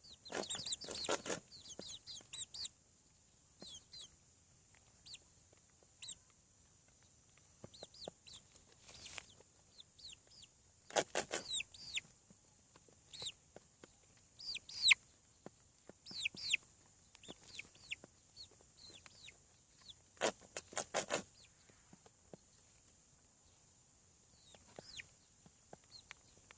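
Seven-week-old chickens peeping and clucking in many short, high, falling calls, with a few brief bursts of clatter among them.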